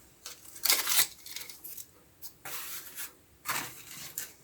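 Dry rustling and scraping in several short bursts: wood chips being handled to kindle a fireplace.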